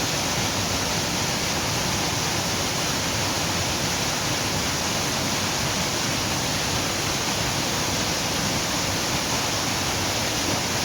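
A waterfall's falling water making a steady, unbroken rushing noise.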